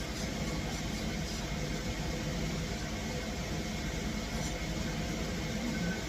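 Steady mechanical hum with a faint high tone held throughout, a small motor or appliance running in the room.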